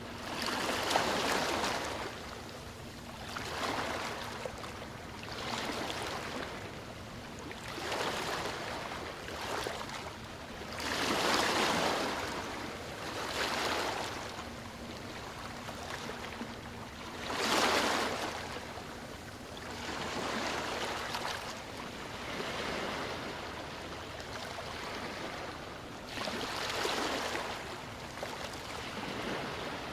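Sea waves breaking and washing up the shore, surging every two to three seconds, with a few larger breakers standing out.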